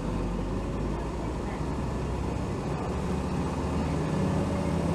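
Hino Rainbow HR city bus (BDG-HR7JPBE, 2007) under way, heard from inside the cabin: a steady diesel engine drone with road noise, the engine getting a little louder about four seconds in.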